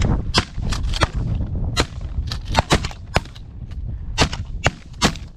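A volley of shotgun blasts from several duck hunters firing on a flock of ducks: about a dozen sharp shots, spaced irregularly and sometimes overlapping, over about five seconds. Wind rumbles on the microphone underneath.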